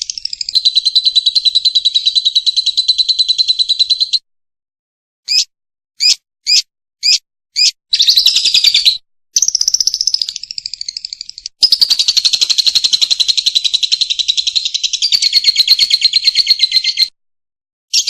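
Lovebird song: long, very rapid chattering trills. About four seconds in, a pause is followed by five short, sharp chirps, then the long trills resume.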